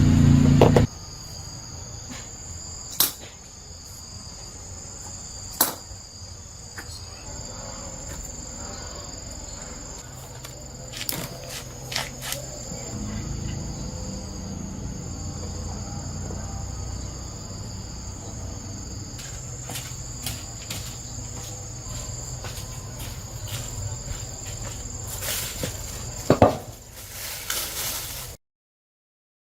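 Steady high-pitched chirring of insects, with scattered sharp taps and knocks. A loud low sound fills the first second, and all sound cuts off abruptly about a second before the end.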